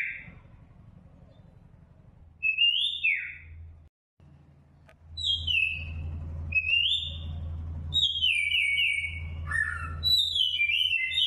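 High whistled bird calls, several in turn: some glide up and then fall away, others are runs of notes stepping downward, coming thicker near the end. A low steady hum runs underneath.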